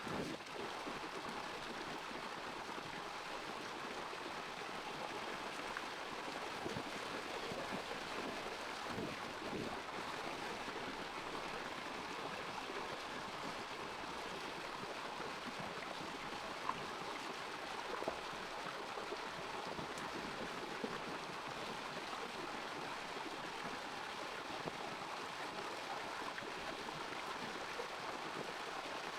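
Running water: a steady, even rush, with a few faint ticks near the middle.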